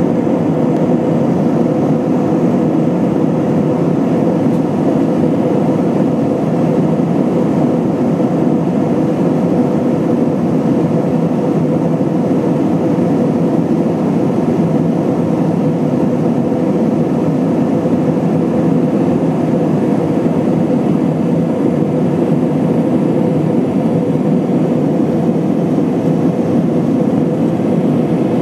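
Steady cabin noise of an Airbus A320-232 in flight: an even rush of airflow and its IAE V2500 turbofan engines, with a faint steady hum near 500 Hz.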